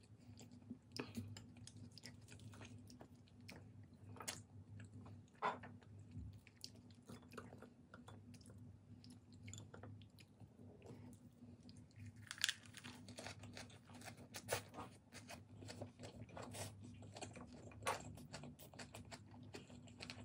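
Close-up chewing of a lettuce wrap filled with boiled pork and kimchi: a run of crisp crunches and wet mouth sounds, over a low, steady hum.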